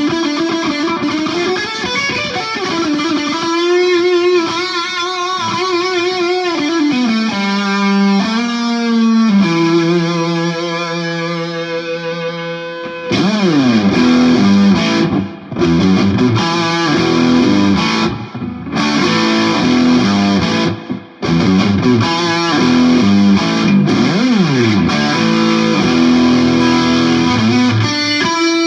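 Electric guitar, a 1967 Gibson SG with three P90 pickups through a Marshall JCM 2000 amp and Headrush pedalboard, played with distortion and effects. The first half is held notes with bends and vibrato. Partway through it switches to a denser, brighter sound with quickly picked notes and a few brief stops.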